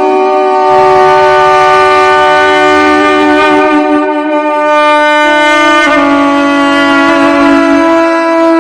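Duduk, a double-reed woodwind, playing a slow improvisation in long held notes, stepping down in pitch about five to six seconds in.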